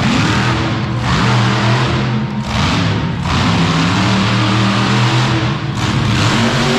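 Monster truck engine revving hard in repeated surges over a steady low engine drone.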